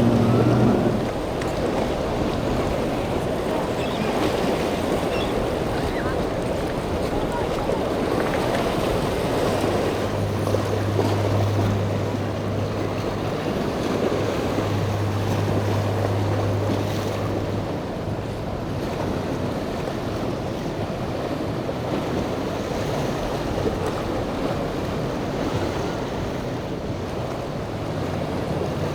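Waves washing and wind buffeting the microphone at a rough inlet. A steady low hum, like a boat's motor, comes in about a third of the way through and stops a little past the middle.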